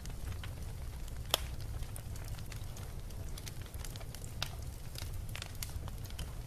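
Bonfire crackling: irregular sharp pops and snaps, one louder snap about a second in, over a steady low rumble.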